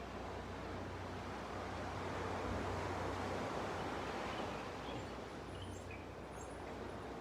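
Gentle sea waves washing on a beach, the surf swelling about halfway through and easing off. A few faint, high bird chirps come near the end.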